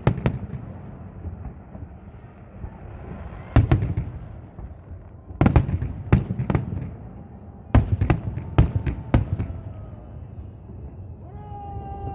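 Salute fireworks: aerial shells bursting in sharp bangs, in clusters a few seconds apart with a low rumble between them. Near the end, crowd voices start to rise.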